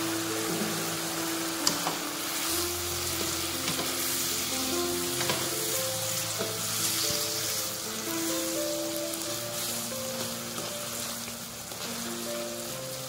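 Cuttlefish rings in oyster sauce and soy sauce sizzling in a wok as a spatula stirs them, with the spatula knocking the wok sharply twice. Background music plays underneath.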